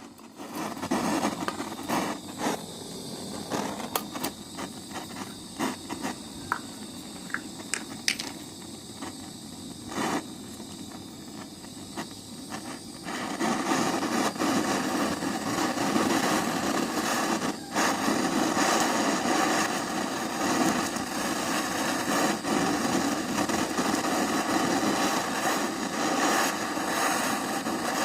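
Gas blowtorch flame burning with a steady hiss, heating the lantern's brass lower stem for soldering, with a few clicks and scrapes of metal in the first half. The flame sound grows louder about 13 seconds in.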